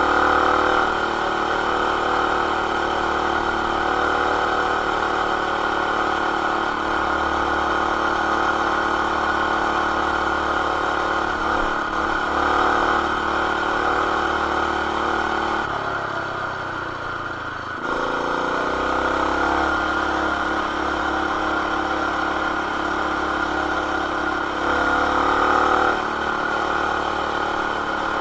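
Baja BT200X mini bike's single-cylinder engine, with aftermarket header and exhaust, running steadily at high revs under way, muffled by the camera's plastic case. About 16 s in the revs drop briefly, then climb back up about two seconds later.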